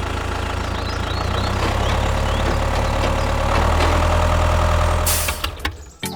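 The small motor of a mini DIY tractor running steadily with a low hum. About five seconds in there is a brief hiss, and then the sound drops away.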